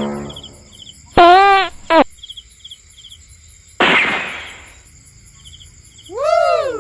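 Comic sound effects over a steady background of chirping crickets: two short wobbling boing-like tones just over a second in, a hissing whoosh about four seconds in that fades away, and a tone that rises and falls near the end.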